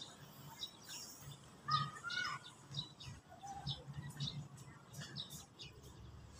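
Birds chirping in many short, scattered calls, a few lower whistled notes among them about two seconds in.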